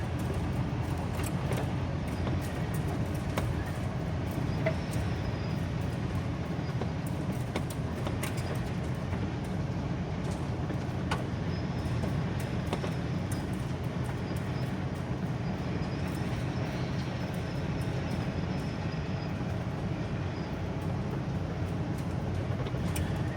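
Mid-1980s Ford motorhome's engine running as it drives slowly, heard from inside the cab as a steady low drone. Scattered clicks and rattles run through it, and a faint high whine comes and goes in the middle.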